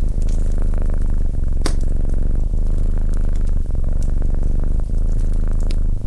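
Domestic cat purring steadily, close up, as a low, fast-pulsing rumble. Sharp crackles and pops from a wood fire in a fireplace break through now and then, the loudest about a second and a half in.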